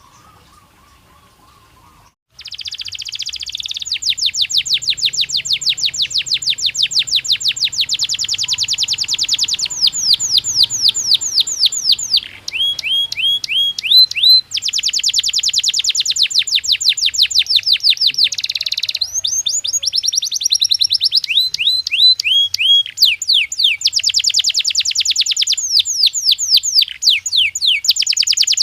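Domestic canary singing a long song of fast trills, each a rapid run of one repeated high note, passing from one trill to the next every few seconds. The song starts about two seconds in.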